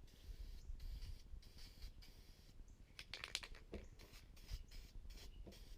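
Faint handling noises: light scattered clicks and scratches, with a short cluster of sharper clicks about three seconds in.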